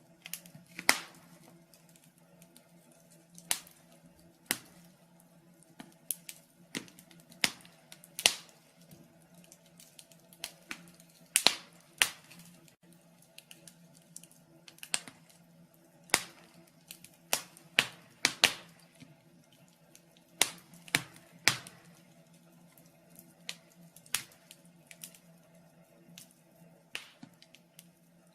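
Wood fire crackling in a fireplace: irregular sharp pops and snaps, a few louder than the rest, over a faint steady hum.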